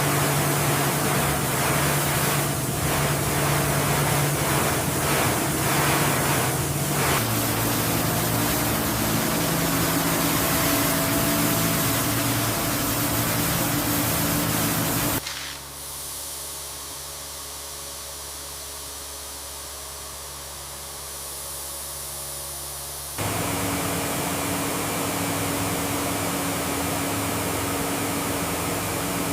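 Steady hiss with a low hum underneath. It drops abruptly to a quieter, duller stretch about halfway through and comes back just as abruptly about eight seconds later.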